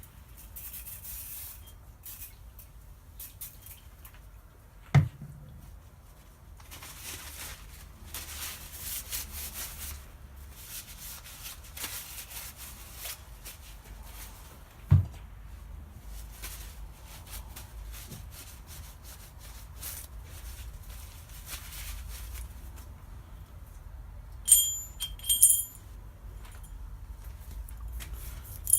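Metal differential parts being handled on a workbench: stretches of rubbing and scraping, two sharp knocks about five and fifteen seconds in, and a few ringing metallic clinks near the end.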